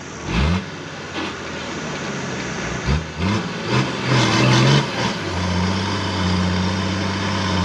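Engine of a four-wheel drive bogged to its axles in soft beach sand, revving up in two short rising bursts, then held at steady revs for the last few seconds as the driver tries to get it moving.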